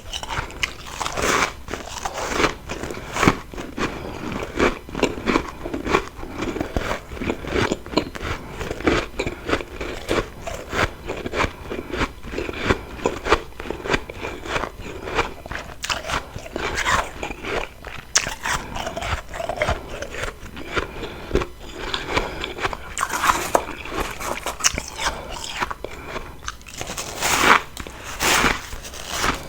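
Close-miked biting and chewing of refrozen freezer frost: dense, irregular crunching, with louder bursts of bites in the second half.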